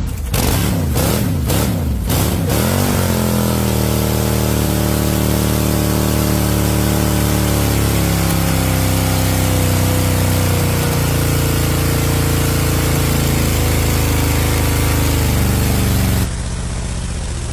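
Old tractor engine running, about 50 years old. For the first couple of seconds its pitch swings up and down, then it settles into a steady run. About a second before the end the sound abruptly turns duller and quieter.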